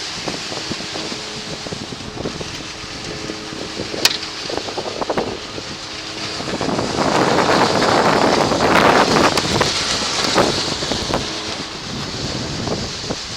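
Wind gusting across the microphone, building to a louder gust in the middle, over a faint steady hum, with one sharp click about four seconds in.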